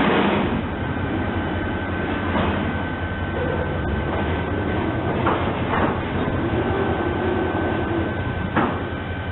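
Train running with a steady low rumble and a steady high tone, broken by about five sharp knocks or clanks, the loudest at the very start.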